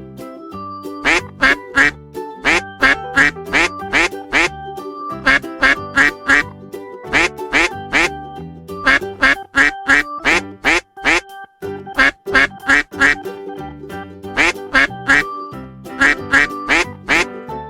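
A duck quacking over and over in quick runs of several quacks with short pauses between, over light background music.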